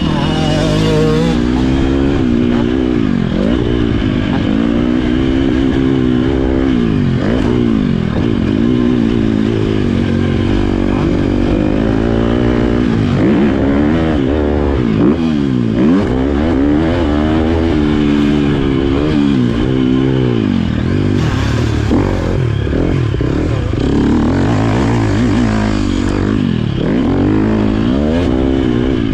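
Motocross bike engine revving up and falling back again and again, its pitch climbing and dropping every second or two as the rider accelerates, shifts and rolls off the throttle.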